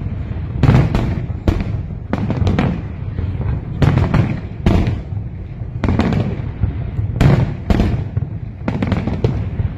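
Fireworks bursting overhead in a dense, continuous barrage of bangs and booms, several a second at times, over a rumbling echo.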